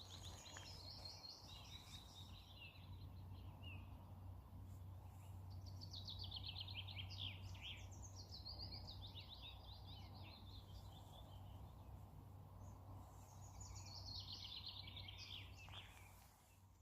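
A songbird singing: quick series of notes that fall in pitch, sung as three phrases with pauses between, over a faint steady low hum of outdoor background noise.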